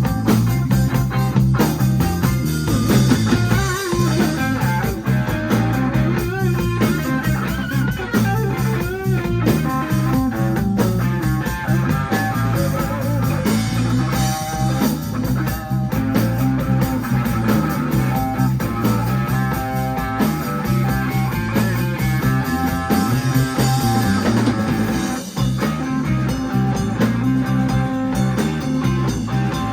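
Live band playing an instrumental blues-rock passage: guitar over a drum kit and a low bass line, with no singing yet.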